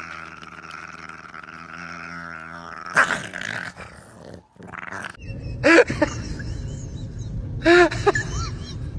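A dog growling steadily, then a sudden loud sound about three seconds in; after a cut, short high whines from a dog, twice.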